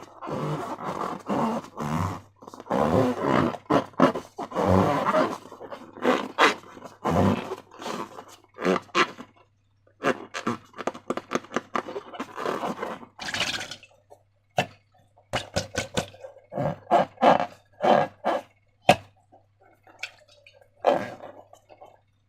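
Slime and rubber balloons being handled and squeezed: irregular squelching, rubbing and rubbery straining sounds, turning into sharper clicks and short squishes about halfway through, over a faint steady low hum.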